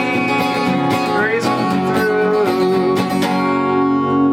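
Acoustic guitar strumming the closing chords of a country song. The strumming stops about three seconds in and the last chord is left ringing.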